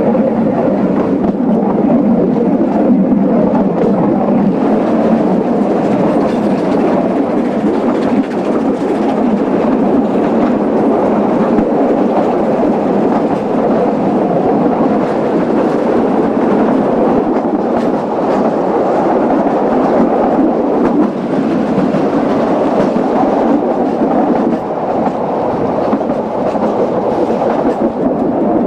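Narrow-gauge steam-hauled passenger train running along the line, a steady rumble of the carriages on the rails with occasional faint clicks.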